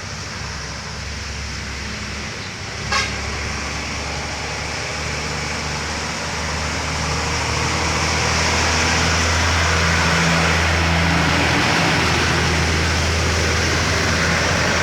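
Truck engine running under load on the road, its low steady drone growing louder about halfway through as the truck draws nearer, with a brief horn beep about three seconds in.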